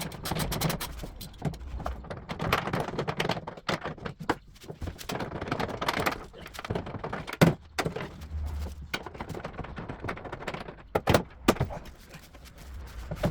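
Clicks, knocks and thunks of hand work on a car door while it is taken off, with a few sharp louder knocks, one near the middle and two close together near the end.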